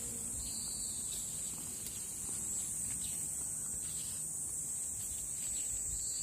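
Steady high-pitched insect chorus, with a lower trill that comes in briefly near the start and again near the end.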